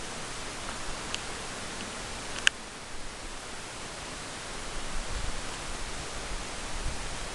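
Steady outdoor hiss with one short, sharp high note about two and a half seconds in and a couple of fainter ticks before it. Low wind rumble on the microphone comes in during the second half.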